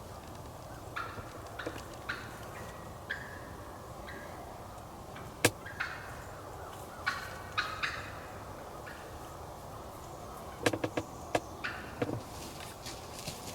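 Wild turkeys calling in a series of short, separate notes scattered throughout, with a single sharp click about five and a half seconds in.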